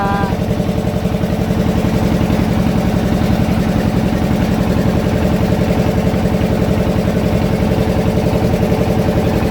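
Fishing boat's engine running steadily with a fast, even chugging pulse.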